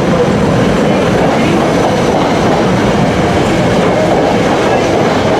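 SEPTA Regional Rail commuter train moving through the station along the platform, its wheels running on the rails in a loud, steady rush.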